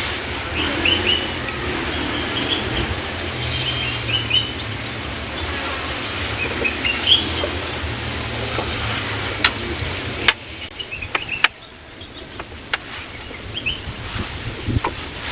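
A steady high-pitched insect drone with scattered bird chirps over a low rumble. The rumble cuts off suddenly about ten seconds in, and a few clicks follow.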